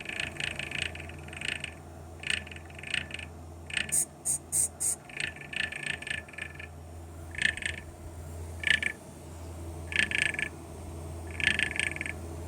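Fan running with a steady low hum, interrupted by irregular short chirping squeaks: the odd noise the fan is making. About four seconds in comes a brief run of four higher-pitched chirps.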